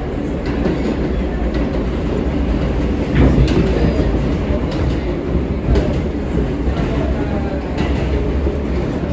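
R143 subway car running between stations, heard from inside the car: a steady rumble of wheels on rail with scattered clicks over rail joints. The rumble grows louder about three seconds in.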